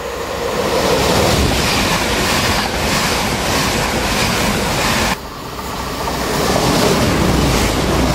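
Train passing along the main line, a loud rushing rumble of wheels on rails that swells up; a little past five seconds in it cuts off abruptly and a second pass swells up again.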